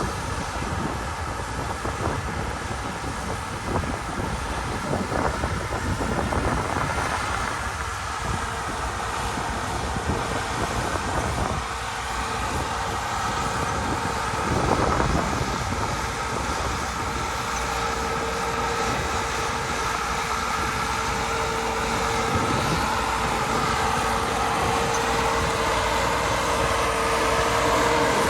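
Farm tractor engine running steadily, with a steady pitched hum that rises slightly near the end.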